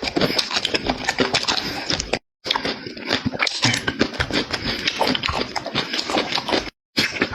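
Loud, close-up chewing and mouth smacking of a person eating, a dense run of wet clicks. It cuts off abruptly twice, just after two seconds and just before seven seconds.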